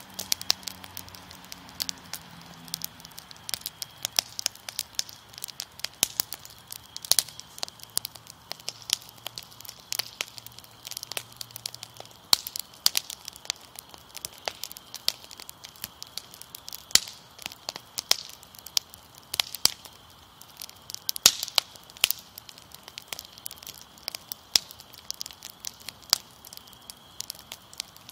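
Wood fire crackling, with frequent irregular sharp pops and snaps.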